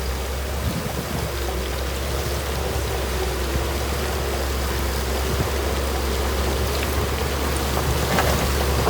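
Heavy earthmoving machine's diesel engine running steadily under a continuous rushing hiss of soil and gravel being moved, with some clatter near the end.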